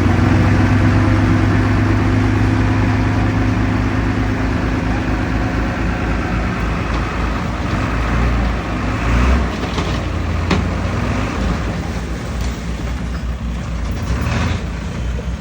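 Heavy diesel engine of earthmoving machinery running steadily. Its higher tones fade about six seconds in, and there is a sharp click about ten seconds in.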